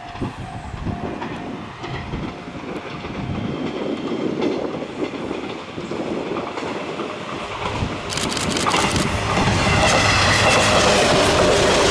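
Electric train approaching and passing close by, growing steadily louder, its wheels clacking over the rail joints from about eight seconds in.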